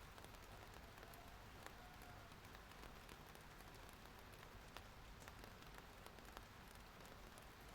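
Faint, steady rain: an even hiss with scattered single drops ticking sharply on a hard surface at irregular intervals.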